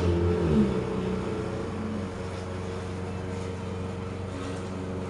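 Passing traffic outside: a vehicle engine that drops in pitch and fades away about half a second in, leaving a steady low hum.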